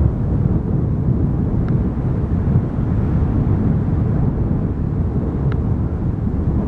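Strong wind buffeting the microphone, a steady low rumble, with two faint short ticks.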